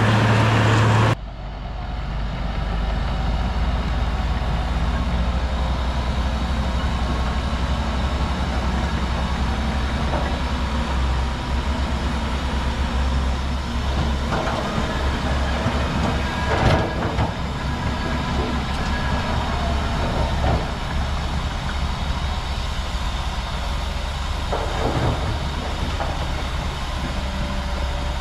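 Heavy diesel earthmoving machine, a bulldozer, running with a steady low drone and occasional short metallic clanks, the loudest about two-thirds of the way through. In the first second a louder, wider noise cuts off abruptly before the drone takes over.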